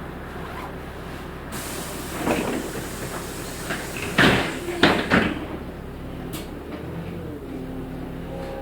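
Interior of a LiAZ-6213.65 articulated city bus under way, with its engine humming steadily. About a second and a half in comes a hiss of air, then several loud knocks and clunks of the body and fittings around four to five seconds. Near the end the engine note rises and settles.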